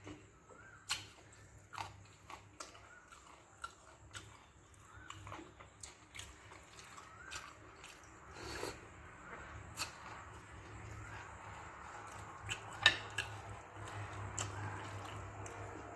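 Close-miked eating of soaked fermented rice and okra stir-fry: irregular wet mouth clicks and chewing smacks, with one sharper click near the end.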